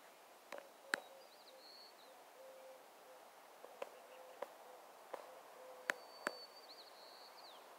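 Quiet outdoor ambience: a songbird gives a thin, high whistled song twice, about five seconds apart, over a faint low tone that comes and goes, with a few light clicks.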